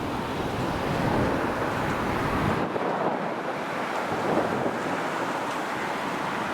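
Strong wind buffeting the camcorder's built-in microphone, a gusty rushing noise; the deepest rumble drops away about two and a half seconds in.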